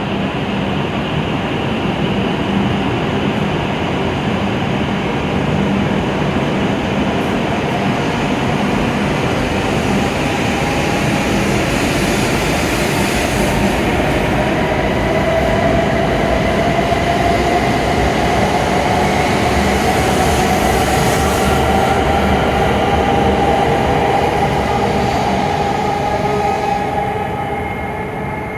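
E7 series Shinkansen train pulling out of the station: dense running noise under a traction-motor whine that rises slowly in pitch as it gathers speed, fading near the end.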